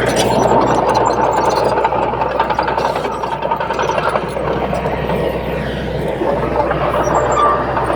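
Crawler bulldozer working, its diesel engine running under a dense clatter, with a steady high squeal and a lower squeal that slides down in pitch near the end.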